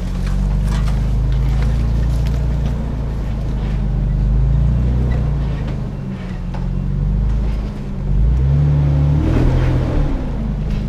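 Nissan Xterra's engine running as the truck drives slowly off-road, with scattered knocks and rattles. About eight seconds in, the engine note climbs and gets louder as the driver gives it more throttle.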